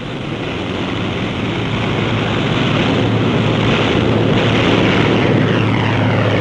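Single-engine light propeller plane running, getting louder as it approaches. Its pitch starts to drop near the end as it passes.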